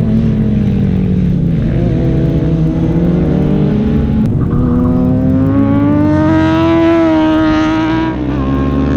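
Sport motorcycle engine on a race track, running hard: its pitch sags at first, then climbs steadily under acceleration from about halfway and drops sharply shortly before the end, like an upshift.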